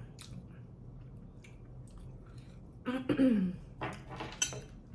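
Close-up eating sounds: chewing and lip smacks on tandoori chicken. About three seconds in there is a short hum that falls in pitch, followed by a few sharp smacks.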